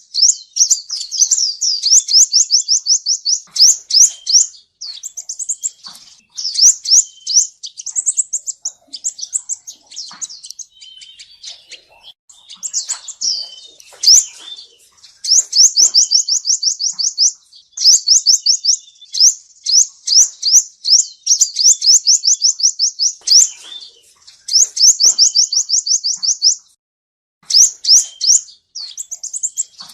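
Male sunbird singing: fast runs of high, thin, down-slurred notes, about ten a second, each run lasting a few seconds with short gaps between.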